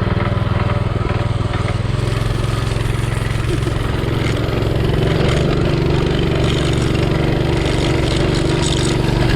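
Home-made mini bike's 220cc engine running under way, a steady engine note that rises and holds stronger about halfway through.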